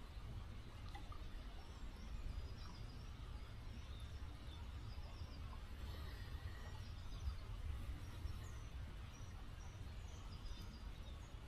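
Small river flowing gently, a faint steady hiss with a low rumble underneath, while small birds chirp in short high repeated phrases throughout.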